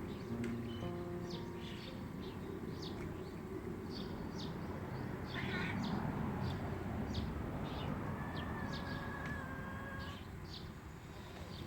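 Small birds chirping, short sharp calls repeating a few times a second, over a steady low outdoor background.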